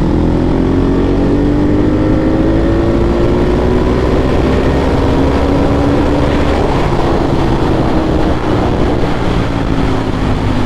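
Ducati 1198S's L-twin engine pulling steadily under way, its pitch climbing slowly and then easing back a little, with heavy wind rush on the rider's microphone.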